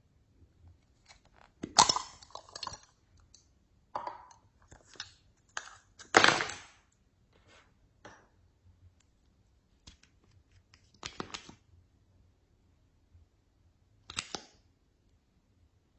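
Slime being squeezed and mixed by hand, making irregular sticky crackles, clicks and pops, with the loudest bursts about two and six seconds in.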